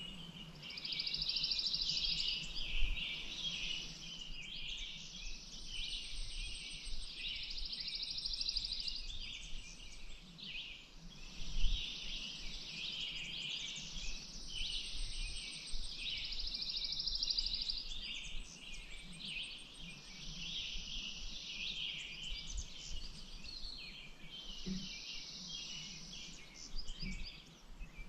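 Chorus of small songbirds chirping and singing continuously, with a high buzzy trill that comes and goes in stretches of two to three seconds. There are a couple of brief low thumps along the way.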